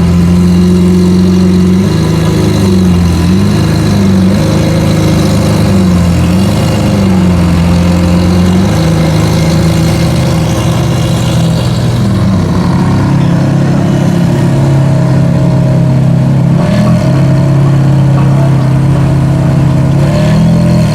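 A car engine running steadily at idle, loud and close. Its note dips briefly a few times, then settles to a lower, steady pitch about halfway through.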